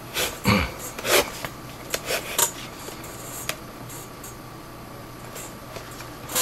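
Leather catcher's mitt and lace being handled during relacing: a few quick rubbing and scraping sounds with a soft thump about half a second in. After that, only a faint steady hum.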